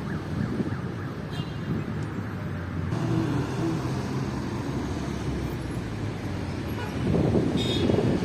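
Hailstorm noise: a steady low rumbling din of wind and hail, with road traffic mixed in.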